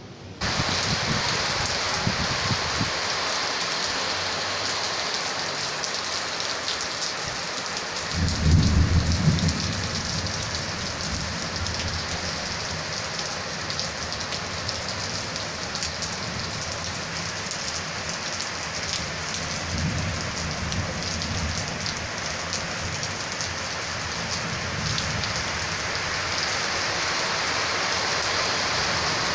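Heavy rain pouring down in a sudden tropical storm, a steady dense hiss. Low rumbles swell under it several times, the loudest about eight to ten seconds in.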